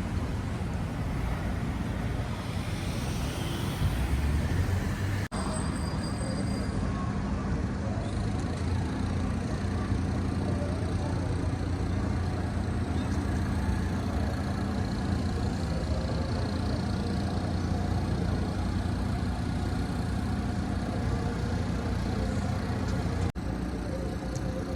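Urban street ambience: road traffic running steadily, with a vehicle passing a few seconds in. The sound drops out for an instant twice.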